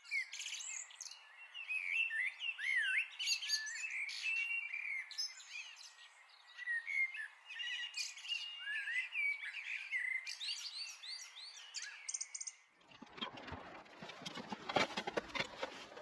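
Several birds chirping and whistling, a busy mix of quick rising and falling calls. About three seconds before the end it cuts off abruptly, giving way to a scatter of clicks, knocks and rustling.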